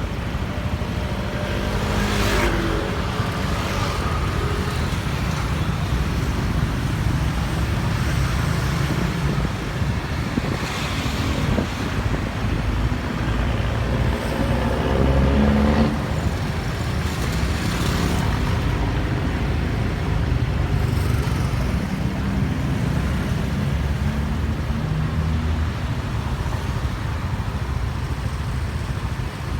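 Road and traffic noise while riding on a motorbike taxi: a steady heavy low rumble, with engines rising and falling in pitch several times as the bike and nearby vehicles speed up, slow down or pass.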